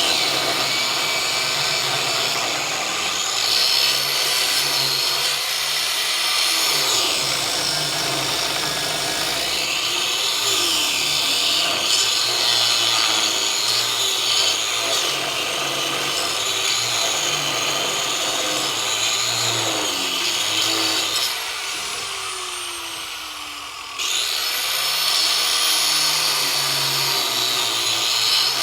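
Power tool cutting into a horse leg bone, its pitch rising and falling as it works. It eases off about three-quarters of the way through, then comes back in suddenly.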